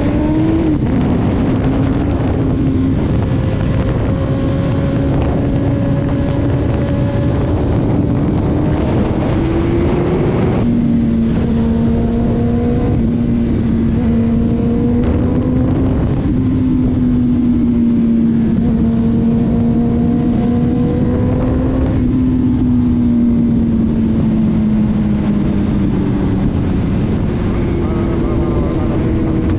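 Car engine and road noise heard from inside the cabin while driving at speed. The engine note drops sharply at gear upshifts about half a second in and again about eleven seconds in, holds fairly steady with slight rises and falls, and climbs to a higher pitch near the end.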